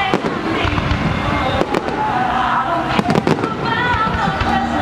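Aerial fireworks going off in quick succession: a run of sharp bangs and crackles, with a tight cluster of reports about three seconds in.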